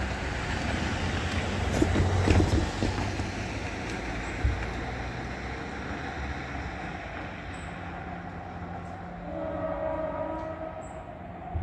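Class 165 diesel multiple unit running away down the line, its engine and wheel noise fading as it recedes. About nine and a half seconds in, a short horn note sounds in the distance.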